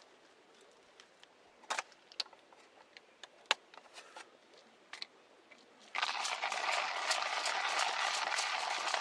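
Campfire crackling: scattered pops and snaps, then about six seconds in a loud, dense crackling hiss that runs on to the end.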